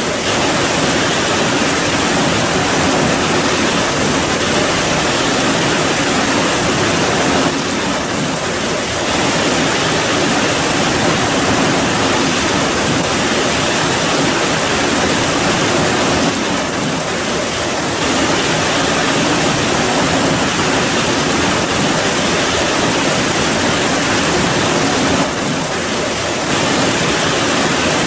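Steady heavy rain, a dense even hiss that dips slightly three times.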